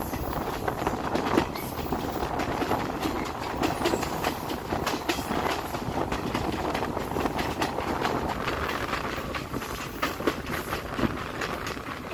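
Passenger train running along the track, heard from the open doorway of a carriage: a steady rumble with frequent irregular clicks and knocks of the wheels over the rails.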